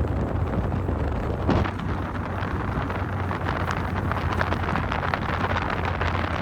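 A vehicle on the move: steady road and wind noise with a constant low hum, and wind buffeting the microphone.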